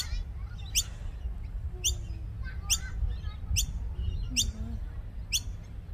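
Pet birds giving short, sharp, high-pitched chirps in a steady series, about one a second, over a low steady rumble.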